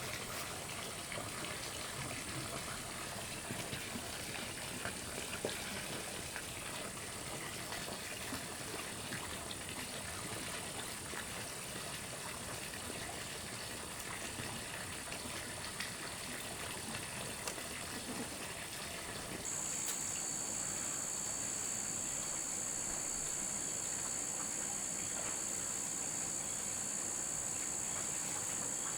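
Insects chirping in a steady, high-pitched chorus over an even background hiss. About two-thirds in it switches abruptly to a louder, slightly lower-pitched insect drone.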